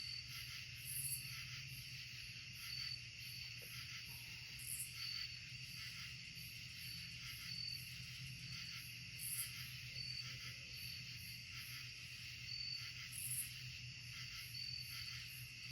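Insect chorus in woodland: a steady high trilling with short, regular chirps about once a second, and a higher buzz every four seconds or so. A low, steady hum sits beneath it.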